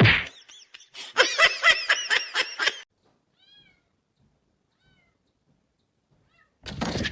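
A cat meowing in a quick run of short, pitched calls, followed by a few faint high calls and then quiet; a sudden loud noise comes near the end.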